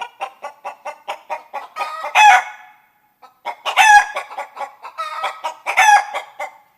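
Domestic hen cackling: runs of quick clucks, each building to a louder, drawn-out call, three times over.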